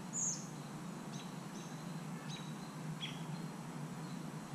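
A bird giving about five short, sharp chirps, each falling quickly in pitch, the first the loudest, over a steady low background hum.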